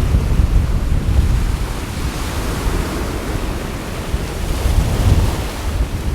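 Sea waves washing onto the shore with gusty wind buffeting the microphone, a low rumble under a hissing wash that swells a couple of seconds in and again near the end.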